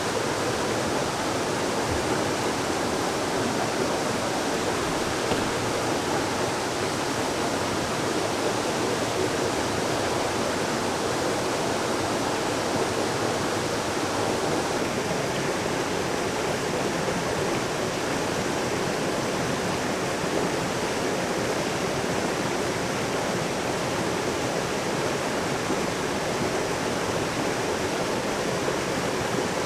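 Steady, even rushing of water that does not change in level.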